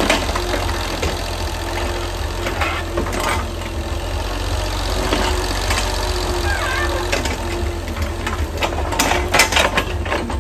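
A motor running steadily, with a cluster of sharp clicks and knocks near the end.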